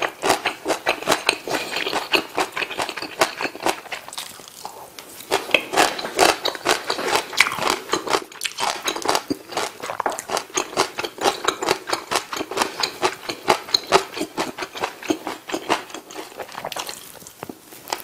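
Close-miked chewing of a mouthful of food, with many quick mouth clicks and smacks, easing off briefly about four seconds in and again near the end.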